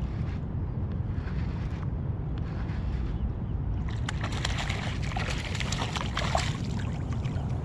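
Wind buffeting the microphone as a steady low rumble, with water splashing and crackling close by from about four seconds in.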